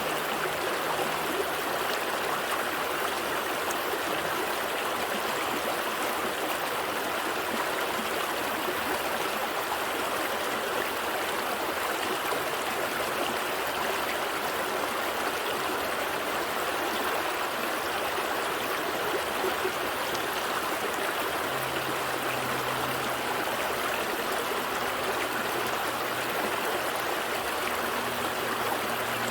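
Gentle stream flowing steadily, a continuous rushing babble of water. A faint low hum joins in the background about two-thirds of the way through.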